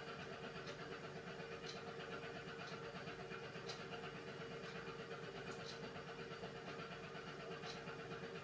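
Beko washing machine running mid-cycle on its hand-wash programme: a steady motor hum with a dense low rumble, and light sharp clicks about once a second.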